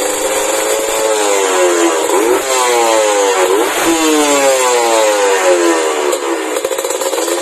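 Two-stroke single-cylinder engine of a Kawasaki Ninja RR running through a WRS aftermarket exhaust: idling steadily for about a second, then revved several times, the pitch falling back toward idle after each blip.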